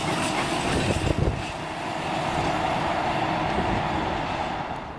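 A train passing on the line: a steady rush and rumble of wheels on rail, with a few knocks about a second in, dying away at the end.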